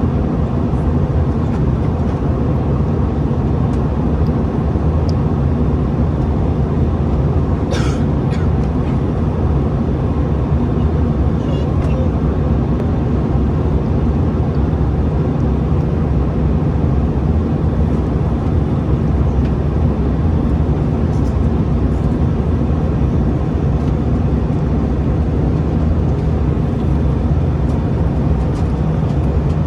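Cabin noise inside an Airbus A321-211 on the ground during its arrival: a steady low rumble from the CFM56 engines and airframe, with a single sharp click about 8 seconds in.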